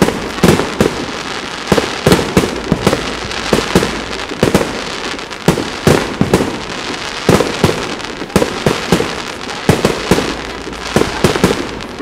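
Aerial fireworks display: shell bursts going off in quick succession, often several bangs a second in clusters, over continuous crackling.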